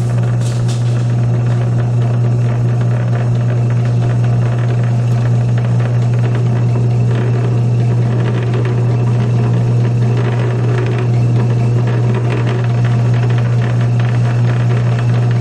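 South Bend metal lathe running with a steady low motor hum while a chamfer tool cuts a lead-in on the pulley's bore.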